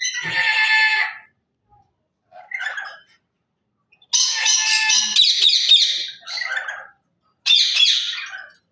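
Lory parrot giving loud, harsh screeching calls in four bouts, the longest starting about four seconds in, made of rapid repeated notes and lasting nearly three seconds.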